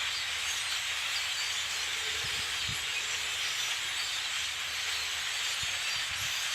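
A huge flock of blackbirds massed in trees, hundreds of birds calling at once into one steady, dense chattering din.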